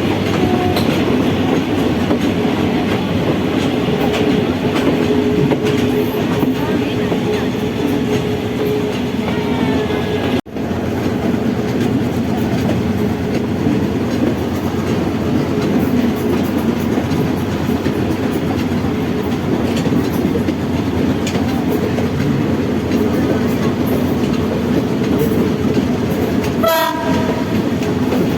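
Passenger train running on the rails, a steady rumble and wheel clatter heard from aboard, cutting out for an instant about ten seconds in. Near the end the train's horn sounds briefly.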